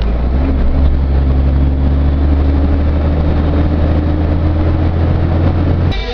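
Truck's diesel engine heard from inside the cab, a steady deep rumble pulling under load with its pitch rising slowly as it gains speed. It cuts off abruptly near the end, giving way to guitar music.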